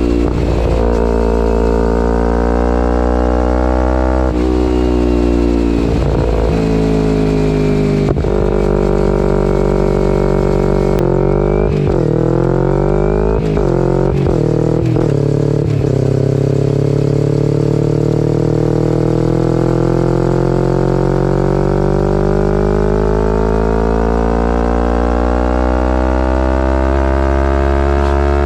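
2011 Kawasaki Ninja 250R SE's parallel-twin engine through a full Graves race exhaust, accelerating through the gears. The revs climb and drop back with each shift several times in the first ten seconds, then jump sharply a few times around the middle. After that comes one long, steady climb in revs.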